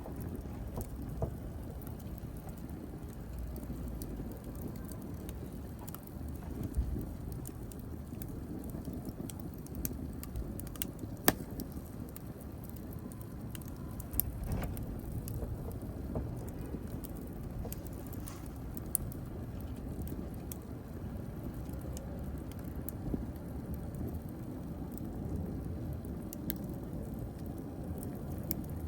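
Wood fire burning steadily with a low rumble and scattered sharp crackles and pops, the loudest about 11 seconds in.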